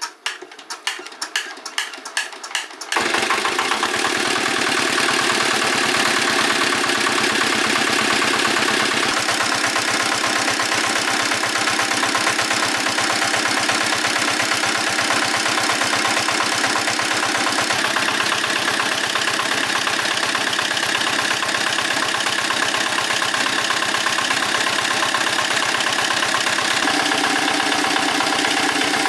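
Engine of a restored 20 kW generator set being cranked, a quickening series of strokes, then catching about three seconds in and running steadily.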